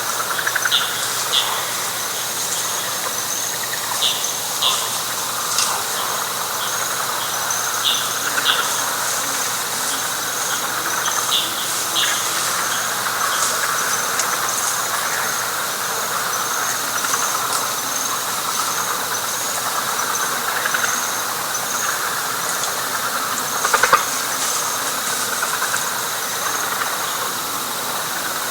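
Chorus of frogs and insects: a dense, steady frog chorus under a high, pulsing insect song, with short sharp calls repeated, often in pairs, every second or two through the first half. A brief louder call stands out near the end.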